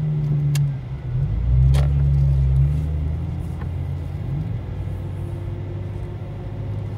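Lexus IS200 TTE Kompressor's supercharged inline-six running at low speed, heard from inside the cabin. It swells with a little throttle about a second and a half in, then settles to a steady low drone. There is a short sharp click just before two seconds in.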